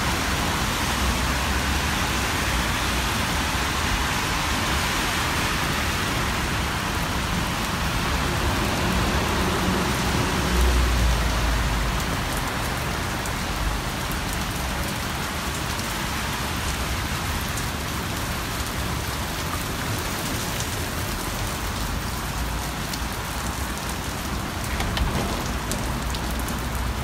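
Heavy downpour pouring onto pavement and street: a dense, steady hiss of rain. A low rumble swells briefly about ten seconds in.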